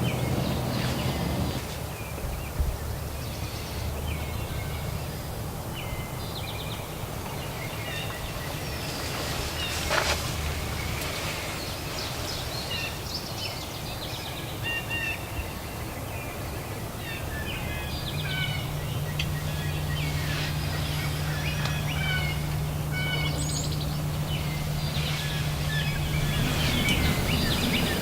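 Morning birdsong in open country: many short songbird calls and trills. There is one sharp click about ten seconds in, and a steady low hum joins about two-thirds of the way through.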